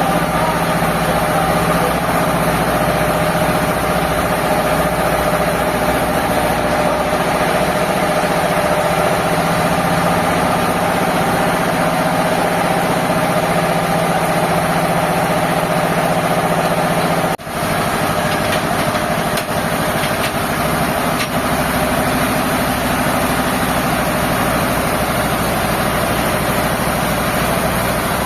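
Sawmill machinery running steadily with a constant mechanical hum. It drops out briefly about two-thirds of the way through, and after that the low hum sits a little higher in pitch.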